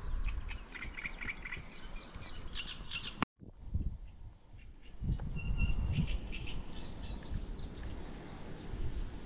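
Small birds chirping and calling over a low rumbling noise. The audio drops out briefly about three seconds in.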